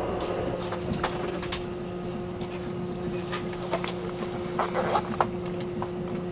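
Cabin running noise of a JR E657 series limited express 'Hitachi' electric train at speed: a steady hum with two held tones, and scattered light clicks and knocks.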